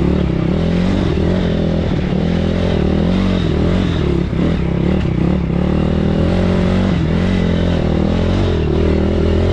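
BSE PH150E pit bike's 150 cc single-cylinder engine running under way at a fairly steady speed, its pitch wavering only slightly. The rider says the bike barely accelerates even with the throttle wide open.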